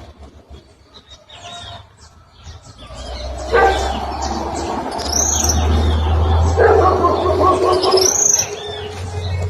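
Small birds chirping with short, repeated high calls over a steady low rumble. A louder, rougher noise swells about three and a half seconds in and again near seven seconds, then eases off near the end.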